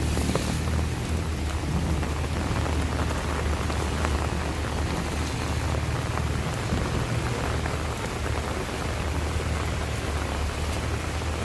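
Steady heavy rain falling and spattering on surfaces, with a continuous low rumble underneath.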